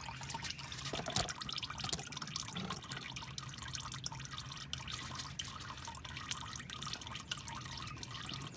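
Engine oil dripping and trickling steadily out of a loosened oil filter on a Nissan 2.5 engine, draining during an oil change.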